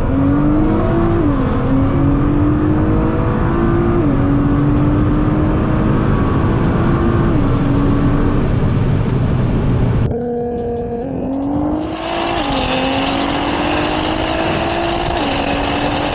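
Car engine at full throttle in a drag run, its pitch climbing steadily and dropping sharply at each upshift, about three shifts. About ten seconds in the sound cuts and a second pass starts, again climbing and dropping through the gears.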